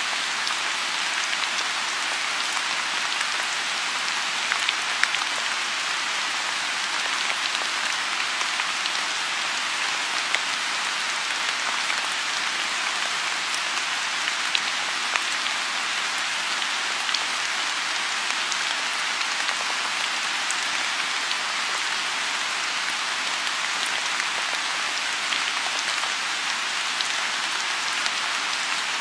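Steady rain falling on a pond, an even patter with scattered louder individual drops.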